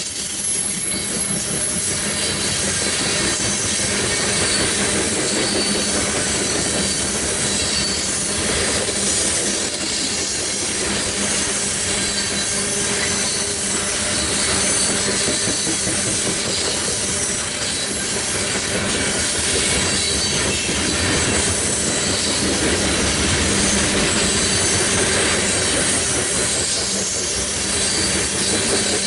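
Freight train cars rolling steadily past on the track: a continuous rumble of steel wheels on rail with a faint high wheel squeal.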